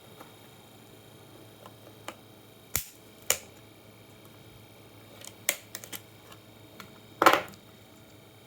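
A handful of short, sharp clicks and knocks, with a louder, slightly longer knock near the end, over a faint steady hum.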